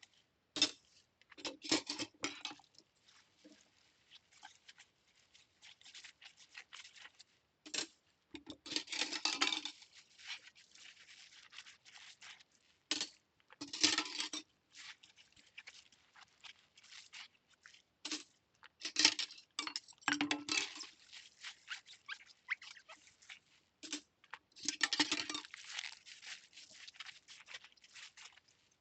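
Cutlery being hand-washed at a kitchen sink: scattered clinks and knocks of metal utensils, with a few longer noisy stretches of scrubbing, about 9, 14 and 25 seconds in.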